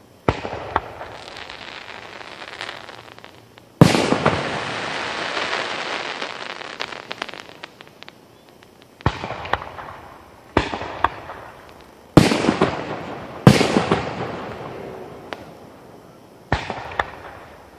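Aerial fireworks shells bursting overhead: about seven sharp booms, the loudest about four seconds in, each trailing off in a long rolling echo with a few smaller pops.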